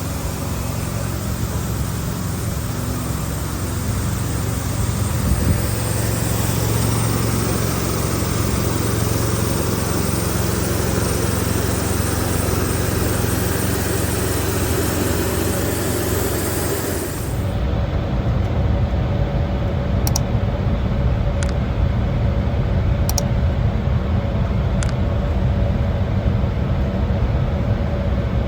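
Steady drone inside the cabin of an Embraer 175 regional jet on the ground, its engines running at idle with the cabin air hissing. About seventeen seconds in, the hiss drops away abruptly, leaving a lower steady drone broken by a few faint clicks.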